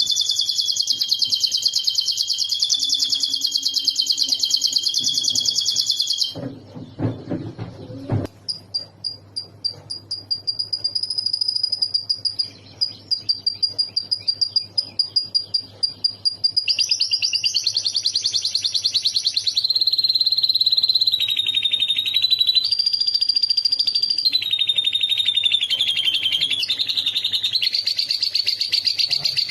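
A domestic canary singing long, fast rolling trills, its song filled in with phrases learned from a lovebird. About six seconds in the song breaks off for a moment with a few low knocks, then resumes with quick repeated notes and more trills that shift in pitch.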